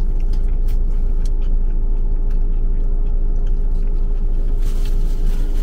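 Steady low rumble and hum inside a car's cabin, as from the engine running at idle, with a few faint clicks.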